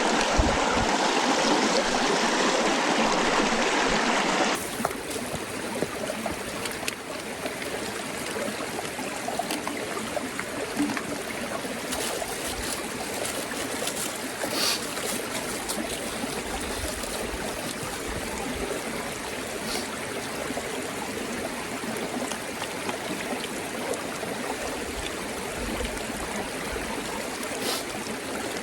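Stream water running steadily. About four seconds in the sound drops abruptly to a quieter, steadier flow, with a few faint clicks.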